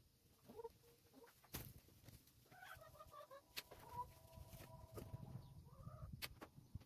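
Hens clucking quietly, with one drawn-out call held for a couple of seconds in the middle. A few sharp clicks stand out among the calls.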